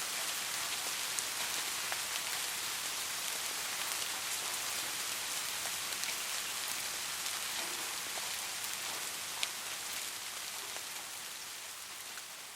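Steady rain falling, an even hiss with scattered sharper drop impacts. It slowly fades toward the end.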